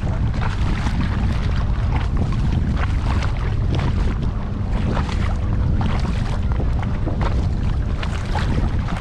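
Kayak on a lake: irregular splashes of paddle and water lapping at the hull, over a steady low rumble of wind on the microphone.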